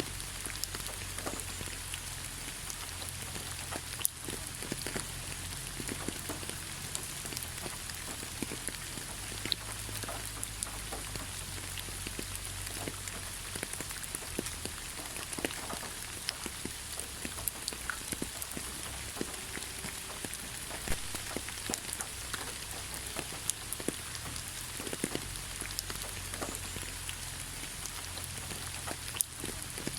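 Steady rain falling through pine forest, a constant hiss dotted with many sharp ticks of single drops striking close by, over a low steady rumble.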